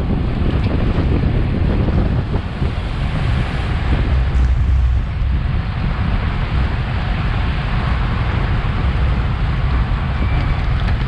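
Wind buffeting the microphone of a bike-mounted action camera as the bicycle races along at speed: a steady, deep rumble.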